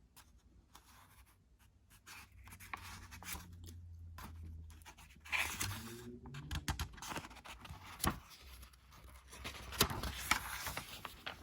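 Paper rustling and scraping with scattered small clicks and knocks, typical of a picture book's pages being handled and turned; it grows louder about halfway through.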